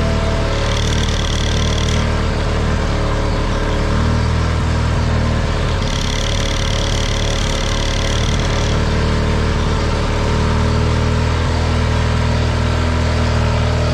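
Parsun 25 hp outboard motor running steadily, fitted with a replacement carburettor. Twice a high whine rises over the engine: once briefly about a second in, then for nearly three seconds in the middle.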